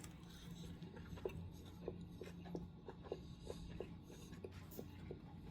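A person chewing a mouthful of steak close to the microphone: soft, irregular wet clicks about two or three a second, over a low steady hum.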